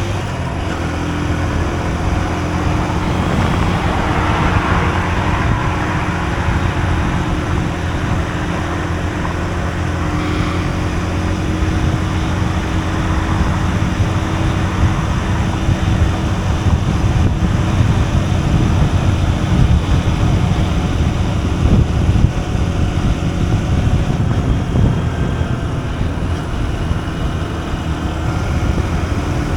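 Honda CB125F's single-cylinder four-stroke engine running at a steady pace under way, with a steady rushing noise over it.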